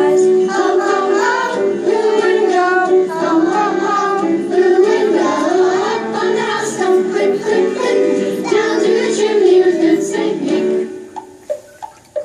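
Children singing a song with instrumental accompaniment; the music stops about 11 seconds in.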